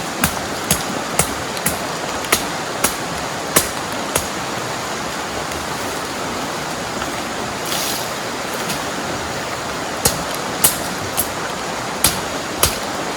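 Steady rush of heavy rain and river water, with a run of sharp knocks about twice a second that stops a few seconds in and starts again near the end.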